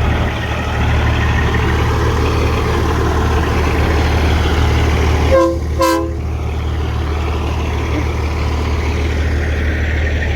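Heavy diesel truck engine idling steadily, with two short horn toots a little past halfway.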